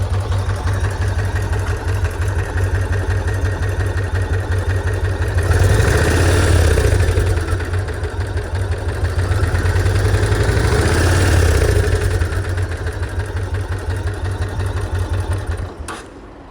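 1999 Yamaha XV1600 Road Star's air-cooled V-twin idling through an SP Tadao T-DRAG aftermarket muffler with its inner baffle fitted, a steady low pulse. It gets louder twice for a few seconds, and the sound drops away abruptly near the end.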